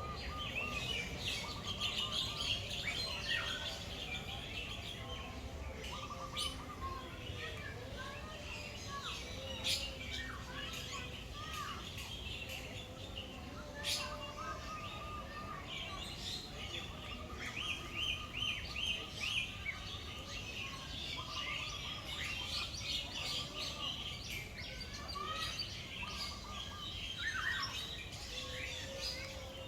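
A mix of many birds chirping, trilling and whistling, their calls overlapping, with a short whistled phrase repeated again and again. A couple of sharp clicks stand out, about a third and halfway through.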